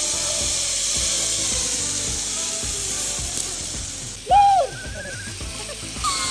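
Zip line pulley running along the steel cable with a steady high whir, with one short loud shout that rises and falls about four and a half seconds in, over background music.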